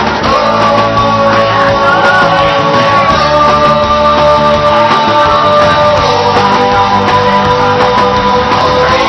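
Rock song playing with full band, a lead line holding long sustained notes that step to a new pitch every few seconds.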